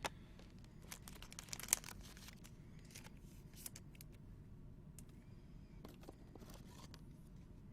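Faint crinkling and tearing of a 2019 Panini Elite Extra Edition baseball card pack wrapper being opened, strongest about a second in, followed by a few light clicks from handling the pack.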